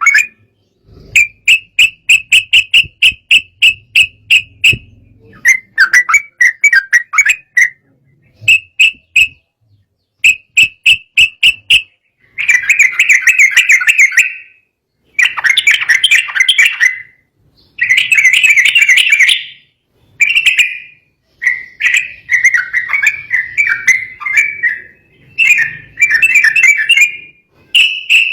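Sooty-headed bulbul (trucukan) singing agitatedly: loud bursts of quick, repeated chattering whistles, each burst a second or two long, with short pauses between.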